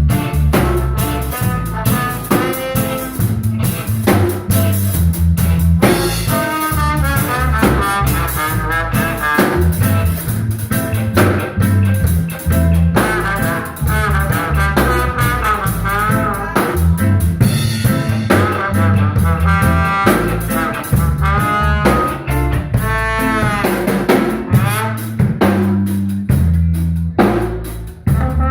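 Live instrumental band playing: drum kit and bass keep a steady groove under a wavering lead melody played on a horn.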